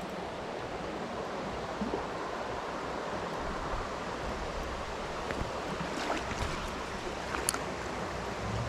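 Steady rush of flowing water, with a few faint light knocks. A low steady hum starts near the end.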